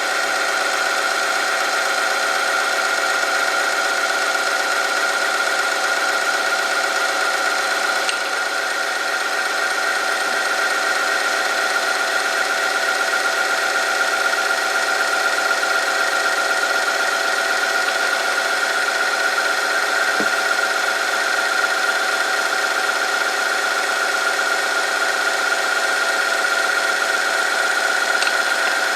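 Oil film-strength test machine running under load: an electric motor spins a steel part against a metal test sample lubricated with engine oil, giving a steady high-pitched whine with friction noise. A few faint clicks come through.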